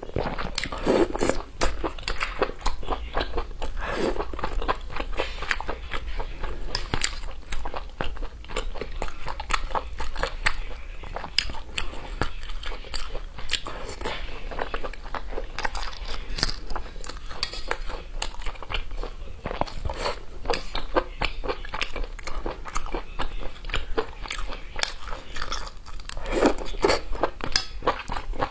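Close-miked chewing and biting of red-braised pork belly: a dense run of quick mouth clicks, with a few stronger bites about a second in, around four seconds, and near the end.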